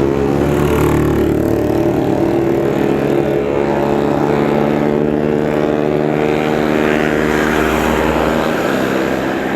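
A vehicle engine running steadily under load, its pitch holding nearly level with small shifts.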